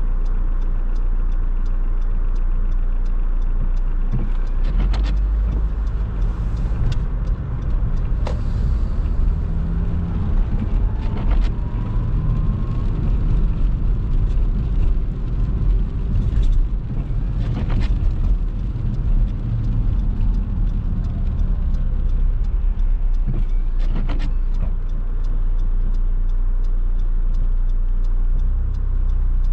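A car driving on rain-wet roads, heard from inside: a steady low rumble of engine and road with tyre noise, and a few short knocks scattered through.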